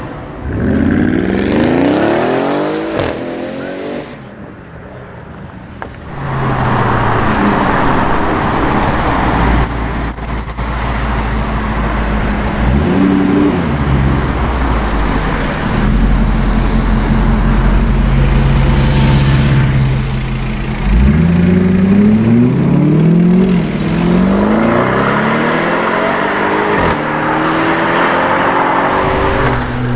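Audi RS6 engine and exhaust revving and accelerating several times, the pitch climbing and dropping, with a couple of sharp exhaust cracks about ten seconds in and a steadier low engine note in the middle.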